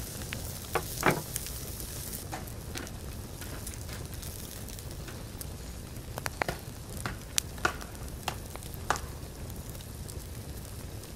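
Diced pancetta sizzling in a cast-iron pan over a charcoal grill, a steady frying hiss broken by about ten sharp crackling pops, the loudest about a second in and several more between six and nine seconds in.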